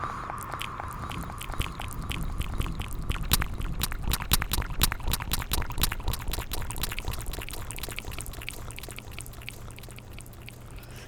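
Close-miked ASMR mouth sounds: a quick run of wet tongue and lip clicks and smacks, thickest and loudest in the middle and thinning out towards the end.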